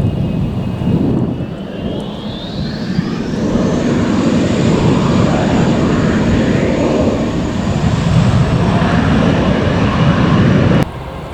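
Twin turbofan engines of an Embraer ERJ-145 regional jet at takeoff power, a high whine climbing steeply in pitch about two seconds in and then holding over a heavy, steady jet noise. The sound cuts off abruptly near the end.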